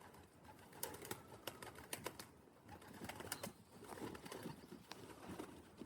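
Faint cooing of young racing pigeons, with scattered light clicks and taps.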